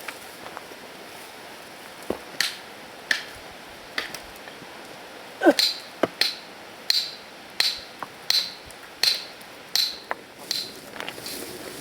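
A hand tool striking stony ground: a few scattered knocks, then a steady run of about eight sharp blows, roughly one every 0.7 seconds.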